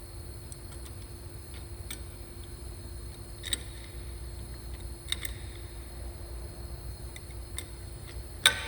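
A few scattered metallic clicks and taps of a wrench working the 1/2-inch nuts on an actuator's stem clamp, the loudest near the end with a brief metallic ring, over a steady low hum.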